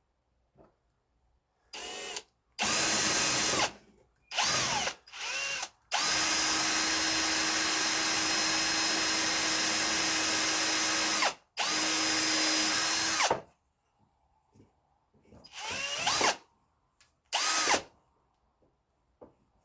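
Electric power drill run in bursts. The motor whines up and winds down on several short trigger pulls, then runs steadily for about five seconds and again for about two, and ends with two short bursts.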